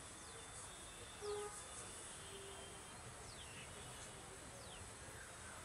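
Quiet room ambience with a few faint, short downward-sweeping chirps, like birds calling outside, spread through it, and one brief soft low tone about a second in.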